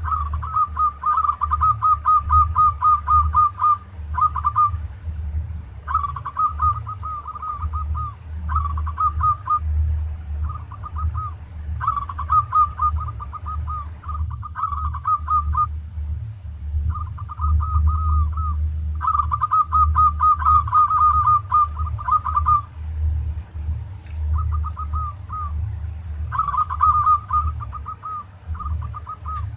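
Zebra dove (perkutut) singing its 'tarik' song: runs of rapid, short cooing notes in bursts of one to three seconds, separated by short pauses. A steady low hum runs underneath.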